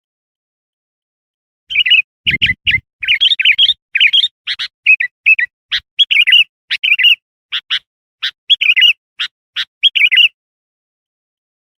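Sooty-headed bulbul (kutilang) calling: a fast, busy run of short chirping notes that starts a couple of seconds in and stops about a second and a half before the end, used as a lure call for wild bulbuls. A brief low thump sounds near the start of the calling.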